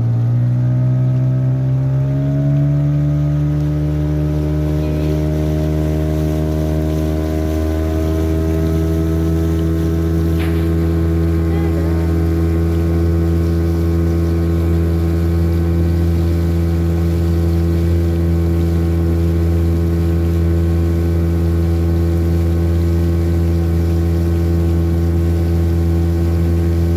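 A motorboat's engine speeds up over the first few seconds, then runs at a steady pitch, with a single brief click about ten seconds in.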